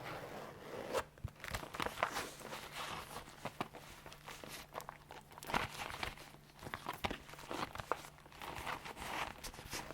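Leather being handled, creaking and rustling, with irregular small clicks and short swishes.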